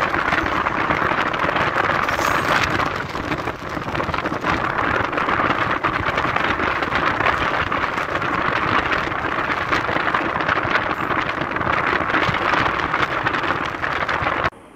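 Running noise of an EMU local train at speed, heard from the open coach doorway: a steady rumble and rattle of wheels on the rails. It cuts off suddenly near the end.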